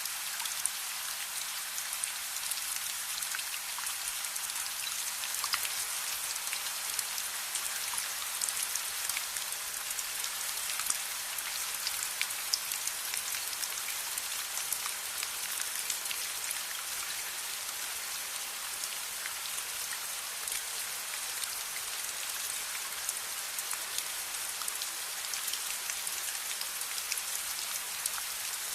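Steady rain falling, a constant hiss with many sharp individual drop ticks.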